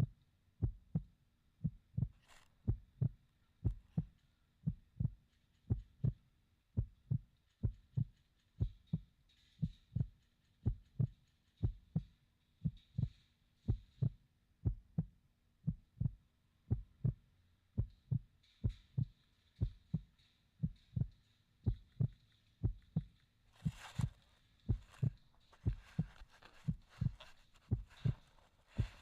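A steady, low, heartbeat-like thumping, about two beats a second, with a brief rustling noise a little past the middle.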